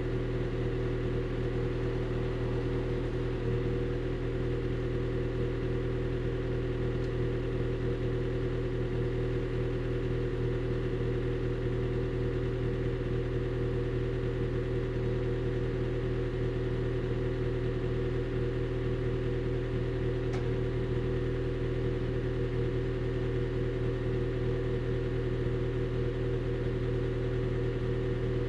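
Honda Shuttle Hybrid's 1.5-litre four-cylinder petrol engine idling steadily through an HKS Silent Hi-Power aftermarket muffler, held running by the hybrid's maintenance mode. The idle stays even, with no revving.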